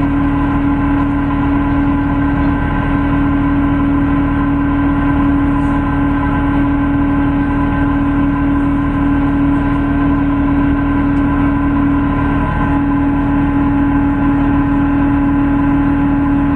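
Cummins ISB6.7 straight-six diesel of a Solaris Urbino 18 hybrid bus running steadily, with a loud steady whine held at one pitch over the engine noise. The bus has a reported drive-belt problem.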